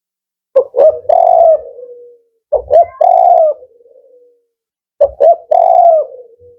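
Male spotted dove cooing its 'kuk 4' song: three phrases about two and a half seconds apart, each a couple of quick short notes followed by a longer note that trails off.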